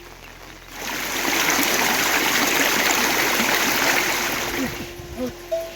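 Loud rushing water of a stream in spate, starting suddenly about a second in and fading out about a second before the end.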